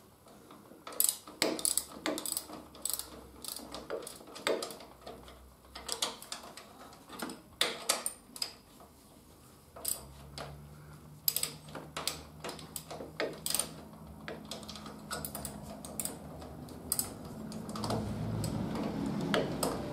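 Irregular metal clicks and knocks of hand tools and a motorcycle fork tube against the triple clamp as the tube is set in the yokes and the bottom-yoke pinch bolts are nipped up. A denser scraping, rustling noise comes in near the end.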